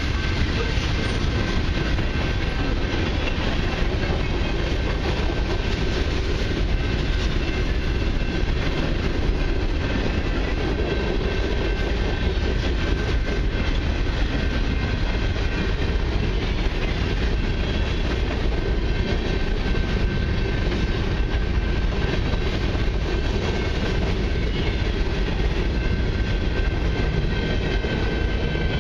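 Freight cars of a long mixed freight train rolling steadily past a road crossing, a continuous rumble of steel wheels on rail, with a faint steady high tone alongside.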